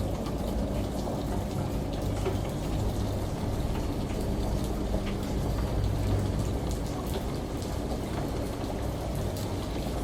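Steady rain falling, with scattered drop ticks, over the low steady hum of a running washing machine.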